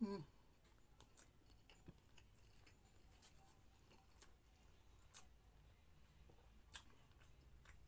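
Faint mouth sounds of a person chewing food with the mouth closed: a handful of soft, sharp clicks at irregular intervals over near silence, after a brief low hum right at the start.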